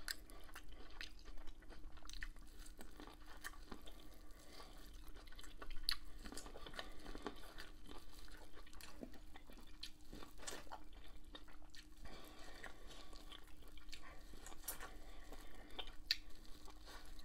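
Close-miked eating of corn on the cob: kernels bitten off the cob and chewed, with irregular soft crunches and wet mouth clicks over a faint steady hum.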